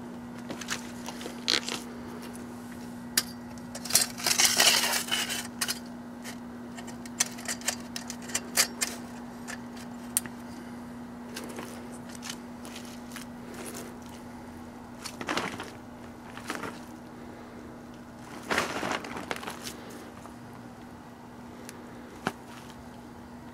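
Microwave oven running with a steady hum while its load of Ivory soap, marshmallows, Peeps and eggs crackles and pops in sharp clicks. Louder crackling bursts come about four seconds in, again around fifteen seconds and near nineteen seconds.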